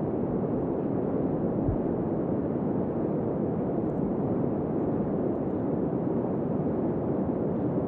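Strong blizzard wind blowing, a steady, dense, low rushing noise with the wind pressing on the microphone.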